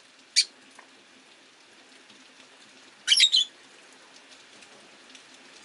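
Rosy-faced lovebirds calling: one sharp chirp about half a second in, then a quick run of shrill chirps about three seconds in. A faint steady hiss of rain runs underneath.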